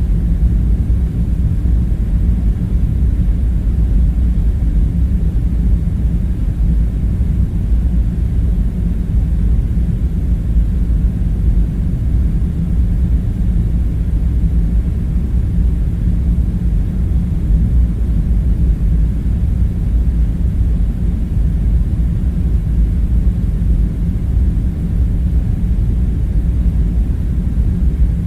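Steady low rumble with a faint hum running through it, even throughout with no distinct knocks or clatters: a deep machinery-like background drone.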